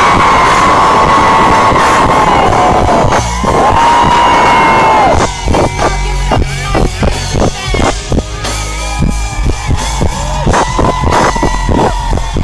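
Live pop concert music heard from the audience: a singer holds two long notes, and about five seconds in a steady drumbeat comes in under shorter sung phrases.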